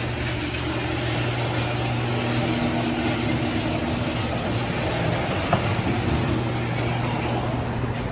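A motor vehicle running steadily: a constant low engine hum under a wide rush of noise, with a small click about five and a half seconds in.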